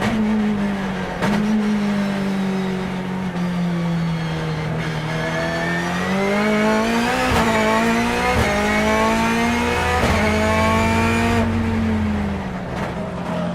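Race car engine of a BMW E36 fitted with a turbocharged BMW S14B20 2.0-litre four-cylinder, running hard. The revs ease down, then climb and drop sharply twice near the middle with a crack at each drop, as at sequential-gearbox upshifts, before holding and falling again.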